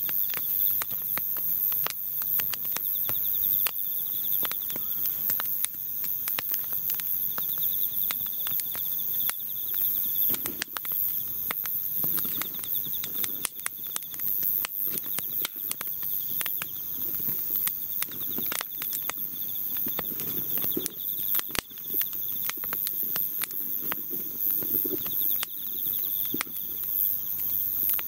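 Wood fire crackling in a portable fire pit, with many irregular sharp pops and snaps. Insects chirp steadily in the background.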